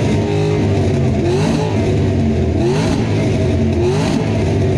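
A car engine with a very loud exhaust revved repeatedly in an exhaust competition: three quick rising revs about a second and a quarter apart over a steady, heavy running note.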